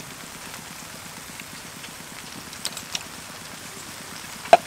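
Beef frying in butter in a large wok, a steady sizzle and crackle. Near the end comes a single sharp metallic clink, with a couple of fainter ticks before it.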